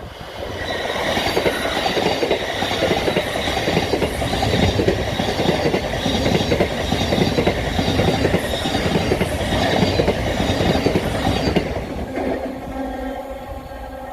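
Passenger train passing at speed on the East Coast Main Line, a dense rattling of wheels on rail that builds quickly and stays loud for about eleven seconds. It then falls away to a fainter steady hum.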